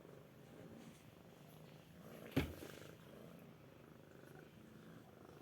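Domestic cat purring softly and steadily, with one sharp knock a little before halfway, the loudest sound.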